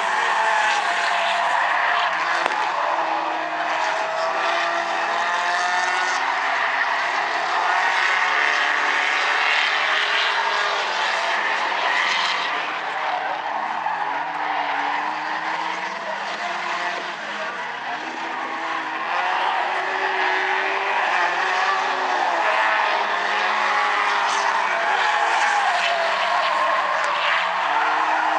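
A field of Stinger 8 figure-eight race cars running at racing speed, several engines overlapping, their pitch rising and falling as the cars accelerate and brake through the track, over a steady haze of exhaust and tyre noise. The sound eases a little for a few seconds in the middle.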